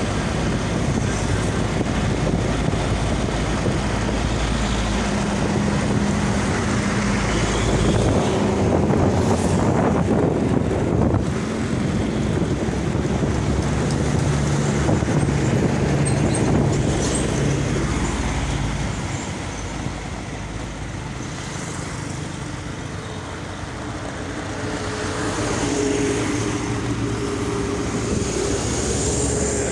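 Heavy road traffic passing close by: engines and tyre noise, with the hum of larger vehicles swelling and fading as they go past.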